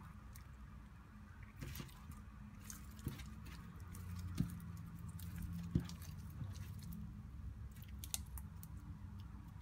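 Clear slime being squished and handled by hand: scattered soft, wet clicks and crackles, with two sharper taps about halfway through.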